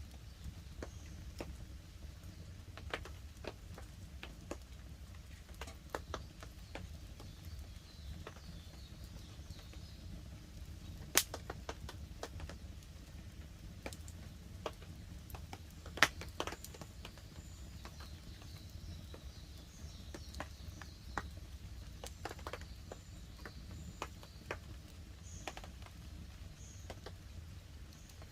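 Wood campfire crackling, with irregular pops and snaps throughout and two sharper, louder pops about 11 and 16 seconds in, over a steady low rumble.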